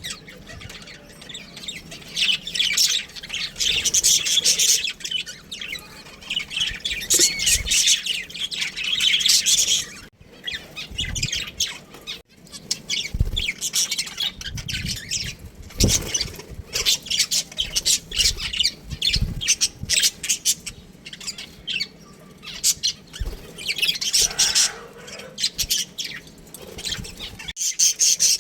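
Budgerigars chattering, with dense rapid high chirps and squawks coming in bursts, and a few low thumps in between.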